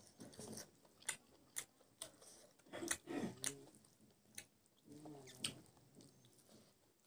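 Close-miked wet chewing and lip smacking of a mouthful of rice and pig intestine, with sharp mouth clicks scattered throughout and two brief voiced sounds from the eater, near the middle and about five seconds in.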